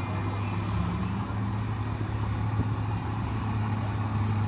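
Competition pulling tractor's engine running steadily under load while it drags the weighted sled down the track during a pull.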